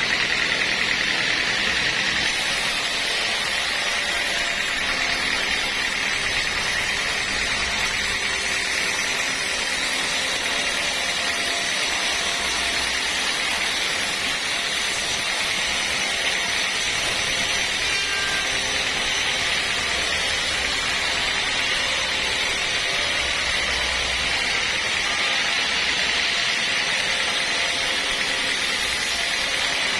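Sawmill machinery running steadily, a continuous mechanical noise.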